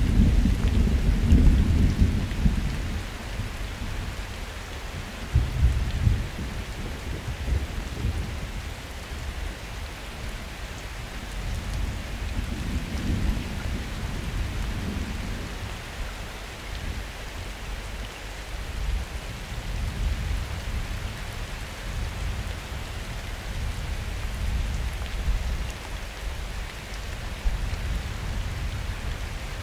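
Steady rain falling during a summer thunderstorm, with rumbling thunder that is loudest in the first few seconds, swells again around six seconds in, and rolls more softly a little before the middle.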